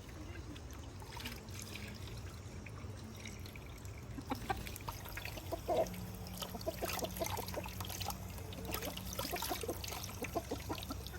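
Water trickling and pouring, with small splashes and ticks scattered through it.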